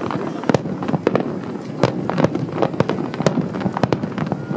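Aerial fireworks shells bursting in a rapid, irregular barrage: about ten sharp bangs, with an echoing rumble filling the gaps between them.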